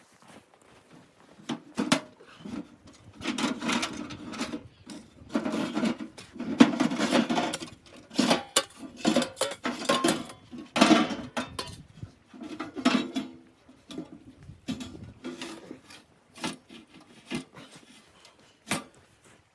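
An irregular run of knocks, scrapes and clatter from things being handled, coming in short bursts with brief pauses between them.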